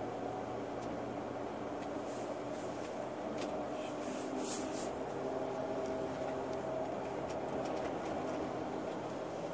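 Tour coach driving, heard from inside the cabin: a steady drone of engine and road noise with several held engine tones.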